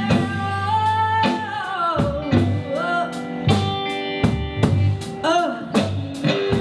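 Live rock band playing: electric guitars, bass and a drum kit on a steady beat. A long held note slides down about two seconds in, followed by short bent guitar phrases.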